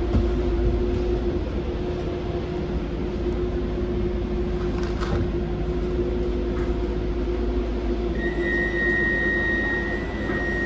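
Docklands Light Railway B92 train running, heard from inside the cab-end of the car: a steady rumble with a constant low hum. A high, steady whine joins about eight seconds in and lasts a couple of seconds as the train nears the station.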